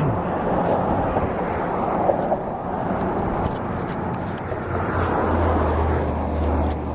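Steady rushing noise of wind and motion on the microphone during a bicycle ride, with a low steady hum underneath that grows stronger about five seconds in and a few light clicks.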